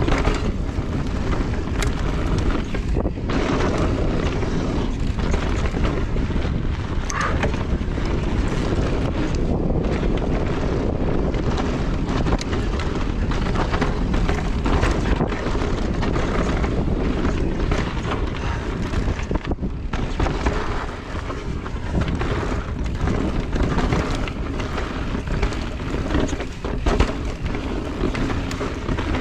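Wind rushing over the microphone and tyres rolling over trail dirt as a Salsa Notch Carbon e-mountain bike is ridden, with frequent knocks and rattles from the bike over rough ground.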